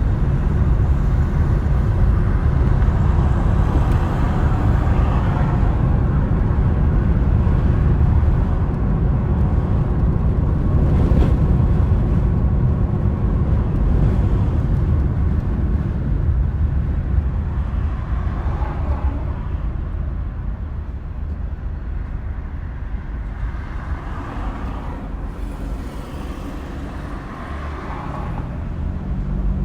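Car driving along: a steady low rumble of road and engine noise that eases off somewhat past the middle and builds again near the end.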